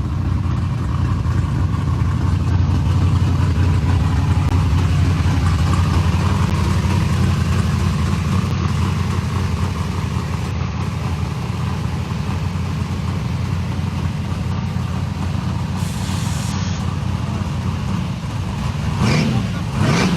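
Steady, loud engine rumble from drag-race vehicles running. Near the end, a vehicle passes close by, its pitch rising then falling.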